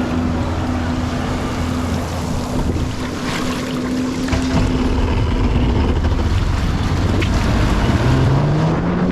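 Jet ski engine running at speed, with wind buffeting the microphone and water rushing. Its steady note fades about two-thirds of the way through, and near the end a new note climbs as the ski speeds up.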